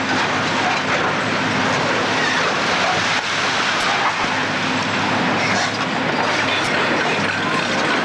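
Steady mechanical noise with a low hum, as from running machinery.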